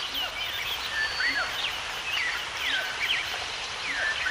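A chorus of birds calling: many short, sweeping chirps overlapping several times a second, over a steady hiss.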